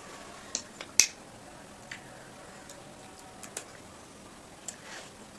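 Scattered sharp clicks and small crunches of children biting and eating ice cream cones. The loudest click comes about a second in.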